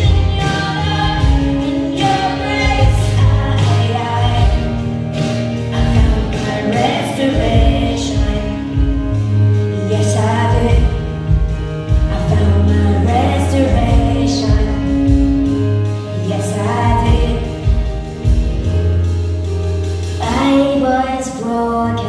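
Christian pop song: female vocals singing long, sliding notes over a band with a steady bass line and beat.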